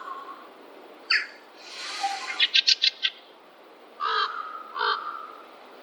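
Wild forest birds calling. First comes a short call, then a hoarse, raspy note and a quick run of about six sharp notes. Later, two harsher calls follow about a second apart.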